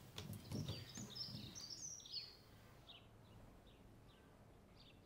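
Faint small birds chirping: short, high, downward-sweeping twitters, busiest for the first two seconds, then a few scattered calls before the sound fades to near silence.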